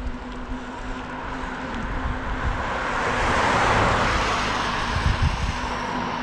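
Road noise with a vehicle passing close by, swelling to its loudest about four seconds in and then fading, over a faint steady hum.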